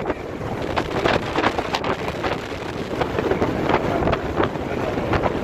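Strong wind buffeting the microphone: a dense, gusty rumble with irregular crackling knocks.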